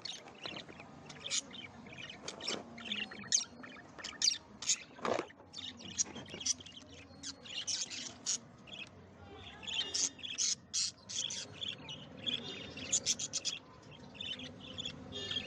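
Budgerigars chirping and chattering: a run of quick, irregular high chirps with a few harsher squawks.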